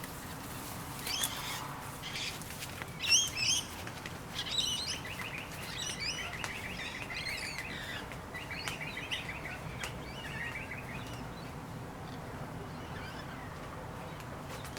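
Birds chirping: a few short, high whistled calls in the first seconds, the loudest about three seconds in, then a fast repeated trill running until about eleven seconds in.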